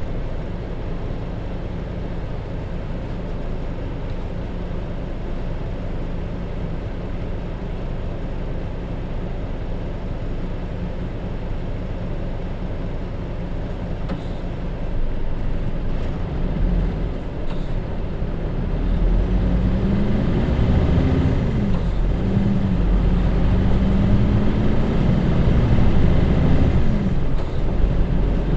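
Hino J07E diesel engine of a city bus with a DD5M manual gearbox, heard from inside the bus: it runs steadily at idle, then the bus pulls away and grows louder, the revs climbing and dropping back at each of two gearshifts.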